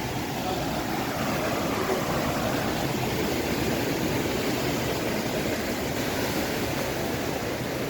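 Steady rushing of water in the Nakivubo stream channel, running high after heavy rain.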